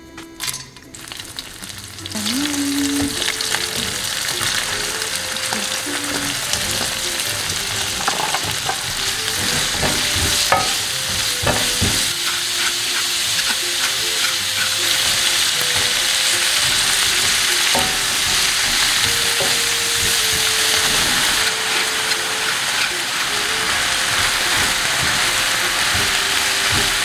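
Vegetables and sliced smoked duck sizzling loudly as they are stir-fried in hot coconut oil in a stainless-steel wok, with occasional taps and scrapes of a spatula against the pan. The sizzle begins sharply about two seconds in and stays steady.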